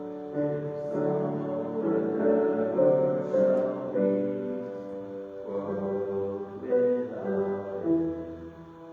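Piano music: a slow passage of chords and melody notes.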